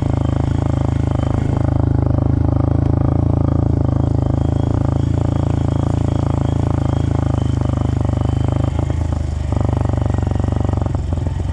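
Dirt bike engine running at a steady throttle, with a slight change in its note about nine and a half seconds in.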